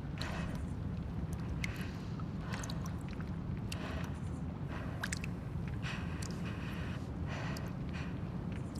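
Abandoned-building ambience: a steady low rumble with short, irregular rustling noises and a few sharp clicks scattered through it.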